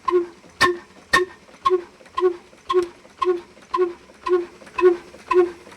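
Old black single-cylinder diesel engine running slowly, its exhaust beat coming evenly about twice a second, each beat a short pitched pop with a click. Two sharper knocks stand out about half a second and a second in.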